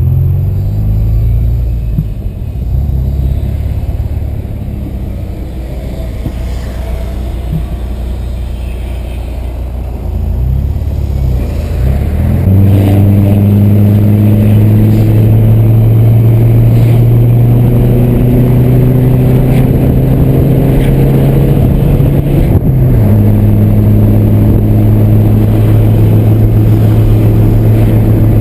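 Volkswagen Santana 2.0's AP four-cylinder engine running while driving. About twelve seconds in it grows louder under throttle, its note climbing slowly, with a brief shift in pitch near the end before it steadies again.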